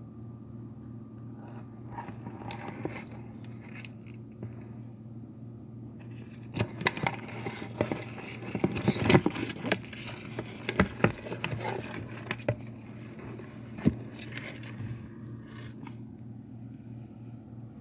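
A turtle eating, its jaws making a flurry of sharp clicks and crackles that are densest about halfway through, over a low steady hum.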